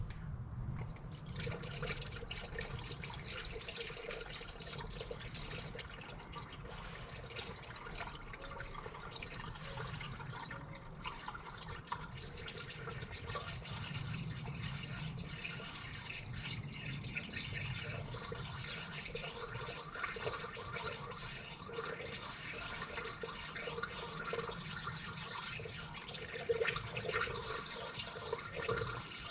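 Coolant being poured from a jug into a funnel on a car radiator: a steady run of pouring, gurgling and splashing liquid.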